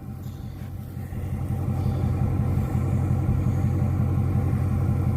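Engine of a farm vehicle idling steadily close by, a low, even, pulsing drone.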